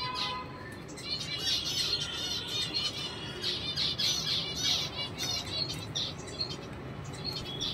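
Small birds chirping in quick runs of high notes, busiest from about one to six seconds in.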